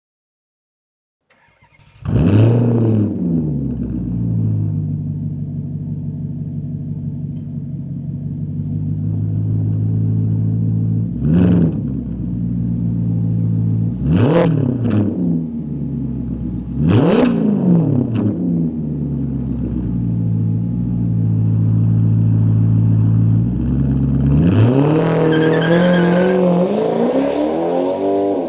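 Maserati Quattroporte V8 starting with a rev flare through its quad exhaust, settling to idle, then blipped three times. Near the end it revs up and holds a rising note.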